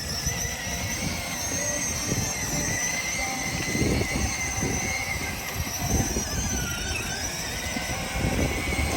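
Electric monster truck's motor whining steadily as it drives, the pitch drifting slightly, over uneven low rumbling that swells a few times.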